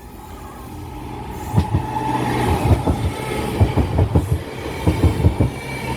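Merseyrail electric passenger train running over the level crossing, its noise building, then a quick uneven run of wheel knocks over the rail joints from about a second and a half in.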